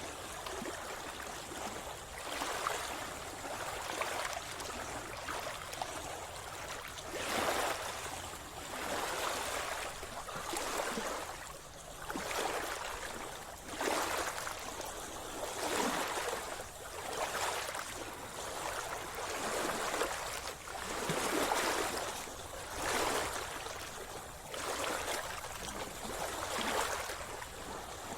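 Sea water splashing and sloshing around a swimmer, in surges that come and go every one to two seconds.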